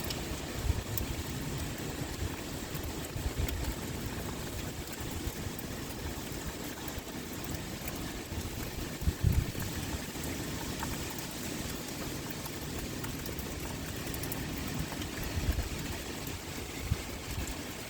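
Heavy rain pouring steadily, a dense even hiss, with a few brief low thumps scattered through it, the loudest about nine seconds in.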